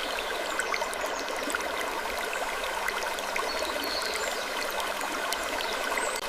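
Steady ambience of running, trickling water, with scattered small clicks and a few faint, short, high chirps.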